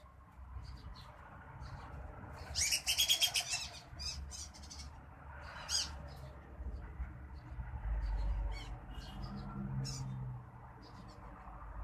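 Whistling ducks calling: a quick run of high, rapid whistling chirps about three seconds in, with scattered short calls before and after. A low rumble comes in the second half.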